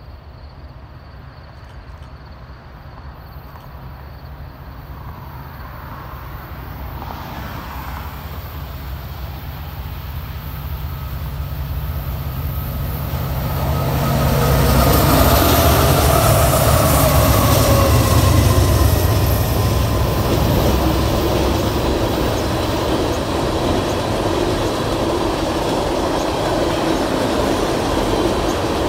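A diesel freight train led by a CSX SD70MAC locomotive, which has a two-stroke EMD 710 V16 engine, approaching with a low engine rumble. The rumble grows steadily louder until the locomotives pass about halfway through. Tank cars then roll by with steady wheel-on-rail noise and clickety-clack.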